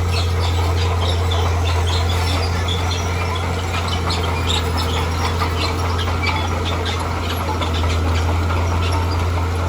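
Heavy earthmoving machine running steadily with a deep, even drone, with many short high squeaks and clicks scattered over it.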